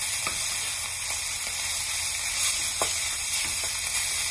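Egg fried rice and beef sizzling steadily in a hot pan as it is stirred with a wooden spatula, with a few light knocks of the spatula against the pan.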